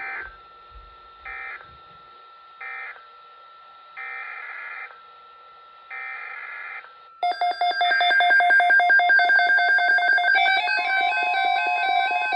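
Electronic alert tones: a steady thin tone with five short synthetic bursts, then about seven seconds in a much louder stepping, warbling alarm pattern starts, and a steady tone joins it near the end.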